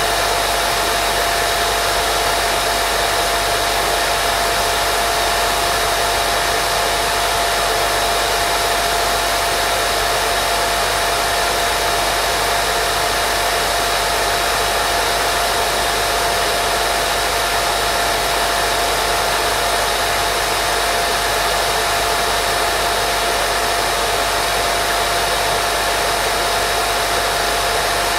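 Continuous white noise for baby sleep: an unchanging hiss with a thin steady whine running through it, like a hair dryer.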